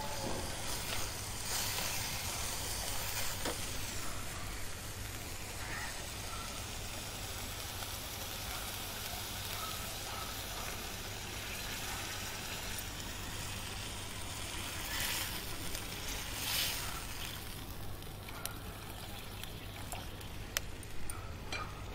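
Soaked urad dal and onions sizzling in hot oil in a steel kadhai, stirred with a spatula. Water is poured into the hot pan partway through, and the steady sizzle carries on, with a few brief louder rushes in the second half.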